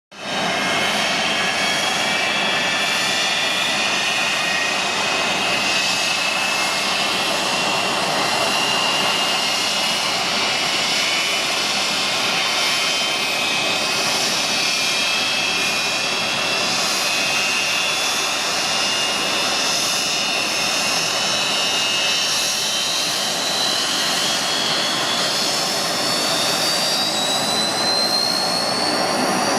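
Antonov An-12's Ivchenko AI-20 turboprop engine starting: a loud, steady rush with a turbine whine that climbs slowly in pitch as the engine spools up, rising faster near the end.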